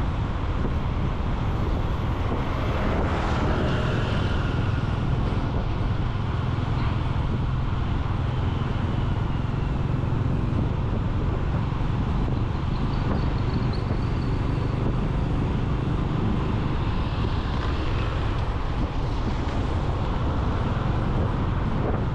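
Wind rushing over the microphone of a camera on a moving motorcycle, with the motorcycle's engine and road traffic under it in a steady rumble. Now and then a passing vehicle's pitch rises and falls.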